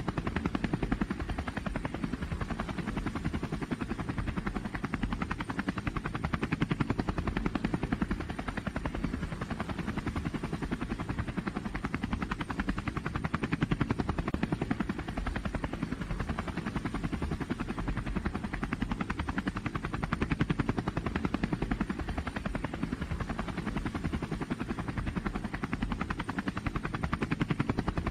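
A pulling vehicle's unmuffled engine running hard with a fast, loud pulsing that swells and eases every several seconds.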